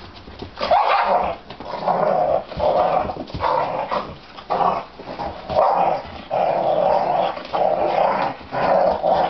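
Dog growling and barking in a run of short bursts, roughly one a second: an aggressive-sounding "attack" display performed on command.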